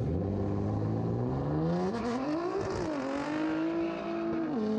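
Car engine revving: its pitch climbs for about two and a half seconds, falls back, holds steady for a while, then drops near the end.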